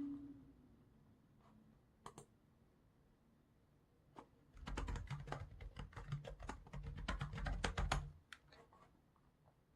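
Computer keyboard typing: a couple of lone keystrokes, then a quick run of keys from about halfway in for some three seconds, then a few last taps.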